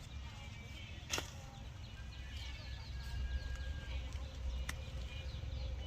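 Small birds chirping over a low steady rumble, with two sharp snaps, one about a second in and one near the end.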